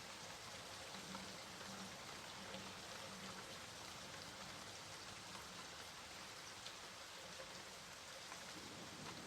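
Steady rainfall, a soft even hiss with scattered individual drops ticking on a surface.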